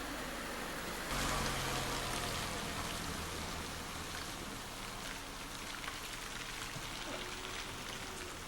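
Steady rush of running water, with a low hum coming in about a second in.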